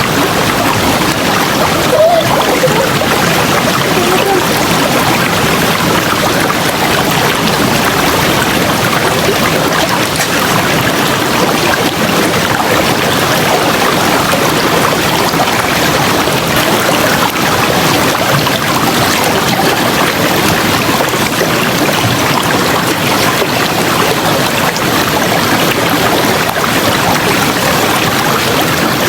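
River water rushing steadily, a dense, unbroken flow.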